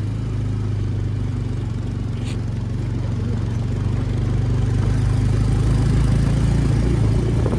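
Motorcycle engine running at low, steady revs while the bike comes slowly up a steep off-road climb, growing a little louder toward the end.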